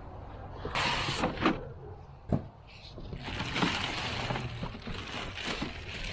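Packaging being opened and handled during an unboxing: rustling and scraping with several sharp knocks and clicks, starting about a second in.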